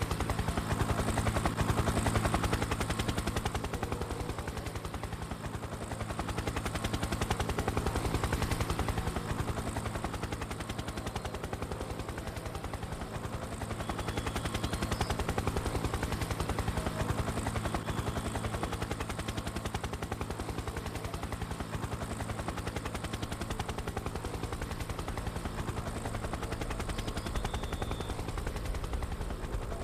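Formula One cars' 3.0-litre V10 engines running at high revs, a continuous dense engine sound that swells and eases over the half minute.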